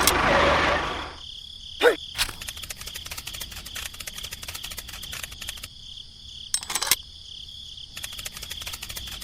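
A small motor running cuts out about a second in, leaving a steady high insect trill like crickets, with fine rapid clicking. Two sharp brief sounds come about two seconds and seven seconds in.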